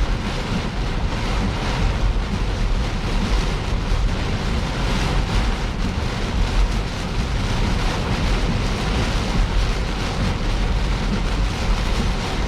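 Heavy storm rain and wind beating on a moving car, a steady loud rush with the low rumble of the car on the road underneath.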